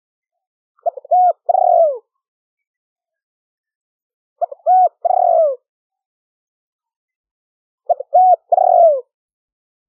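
Spotted dove cooing: three calls about three and a half seconds apart, each a couple of short clipped notes followed by two longer coos that fall in pitch at the end. It is the call of a decoy dove used to lure wild spotted doves.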